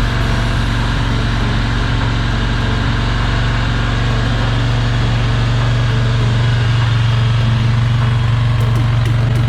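Yamaha XV1100 Virago's air-cooled V-twin engine idling steadily through its exhaust.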